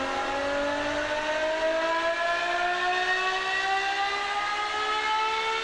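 V12 engine note rising steadily as it accelerates, one smooth continuous pull through a single gear.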